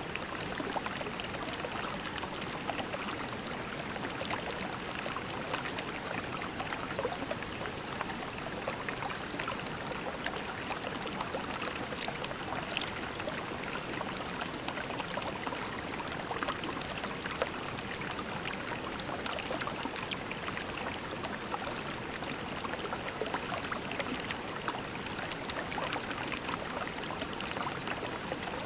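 Shallow creek babbling and trickling steadily over pebbles, with many small splashes and droplets.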